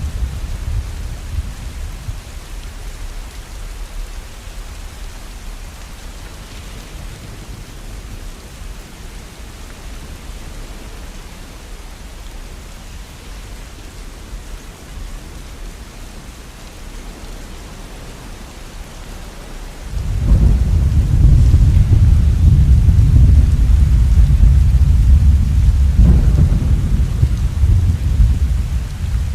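Steady rain with thunder. A low rumble fades away over the first few seconds. A loud, deep thunder rumble starts suddenly about twenty seconds in and lasts almost to the end.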